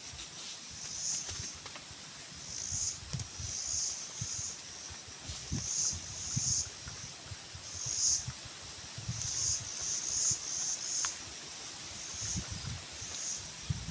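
Insects chirping in short raspy bursts, one or two a second, with soft low thuds and rustles underneath.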